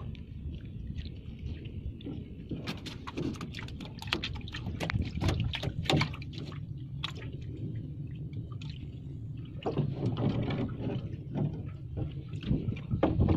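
Water sloshing and splashing under a steady low rumble, with a busy run of sharp clicks and knocks in two stretches.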